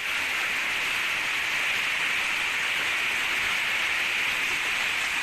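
Hail and heavy rain falling together, a dense, steady patter with no let-up.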